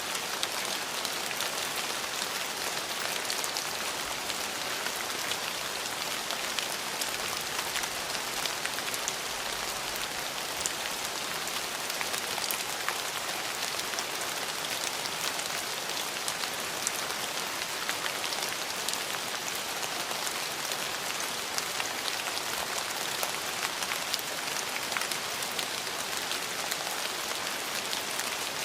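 Steady rain falling, an even hiss with many small, sharp drop ticks on surfaces close by.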